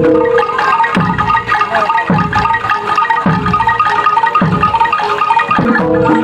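Gamelan-style music: tuned metal mallet instruments play quick repeating notes over a low drum stroke about once a second.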